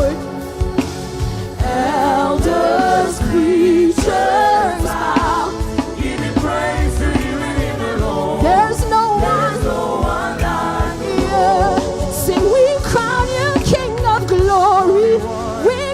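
Live gospel worship music: singing voices with wavering, held notes over a band with a steady drum beat.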